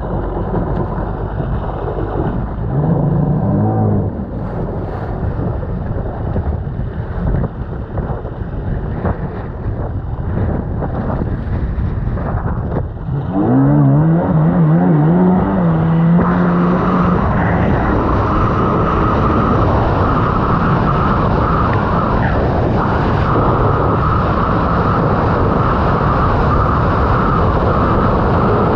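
1999 Sea-Doo XPL personal watercraft's two-stroke engine running with heavy wind on the microphone. About halfway through, the engine revs up and then holds a steady, louder drone at speed.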